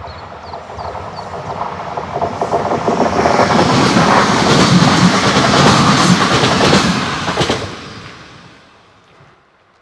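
A train passes over the level crossing: its rumble builds, is at its loudest for about four seconds with the wheels clattering over the rail joints, then dies away quickly near the end. The crossing's electronic bell is heard faintly dinging at the start, under the approaching train.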